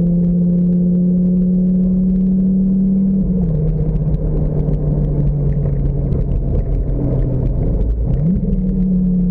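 Lamborghini engine running at a steady cruise as the car drives with the top down, heard from inside the open cabin with wind noise. Its note drops to a lower pitch about three seconds in, then near the end dips briefly and quickly climbs back up.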